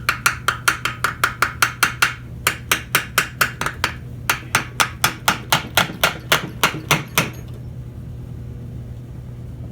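Rapid hammer blows on metal, about four a second, each with a short ring, with a brief pause about two seconds in, stopping about seven seconds in: striking at a seized part of a Briggs & Stratton engine to free it.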